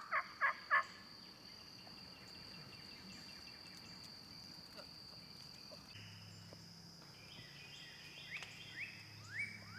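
Quiet woodland ambience under a steady high insect trill. In the first second come the last three fading notes of a turkey calling series; near the end a songbird starts a run of short rising whistled notes, about three a second.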